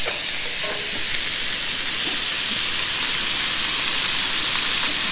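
Mahi-mahi pieces sizzling in butter and olive oil in a small cast-iron pan, just turned over: a steady frying hiss that grows slightly louder.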